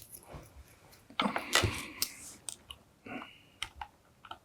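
Light clicks and short scrapes of small parts being handled: an LED being fitted into a kit circuit board, its legs pushed through the holes.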